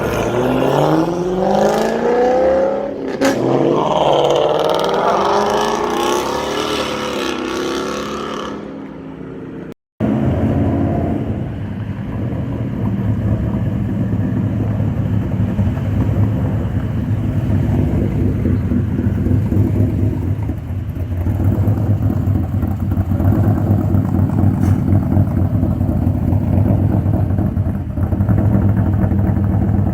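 Car engine revving up and down several times, then, after a cut about ten seconds in, a car engine running steadily with a deep, lumpy rumble.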